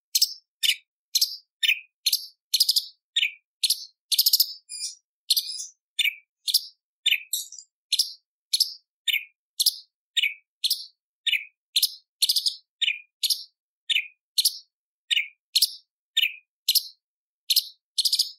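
Cucak cungkok (leafbird) calling in a rapid, steady series of short, sharp, high-pitched notes, about two a second with brief silent gaps between them.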